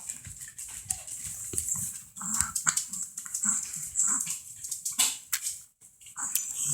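A pet dog making small soft sounds, short and scattered, with light clicks among them.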